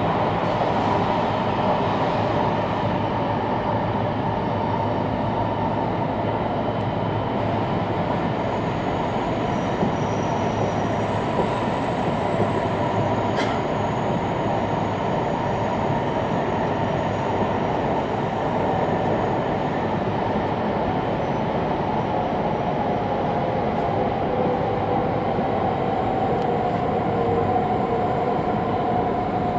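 Running noise heard inside an E2 series Shinkansen car: a steady rumble of wheels on rail with a faint high whine, as the train runs through the underground approach to Ueno station.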